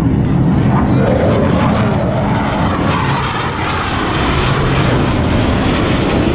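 Loud, steady engine noise of display aircraft flying past, dipping slightly about halfway through and then building again.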